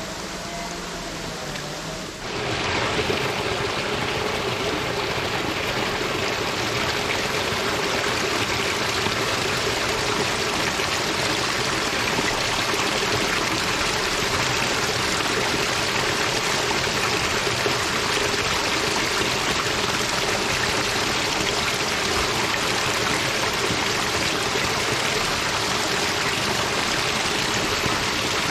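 Running water rushing steadily, like a garden stream or small waterfall. It comes in suddenly and louder about two seconds in, after a quieter steady hum.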